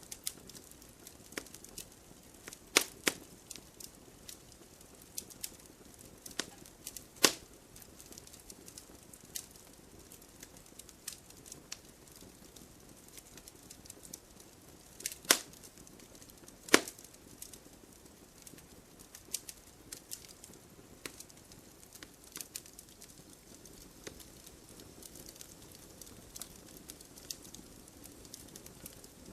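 Wood fire burning in a fireplace: crackling with irregular sharp pops over a faint hiss, the loudest pops about 3, 7, 15 and 17 seconds in.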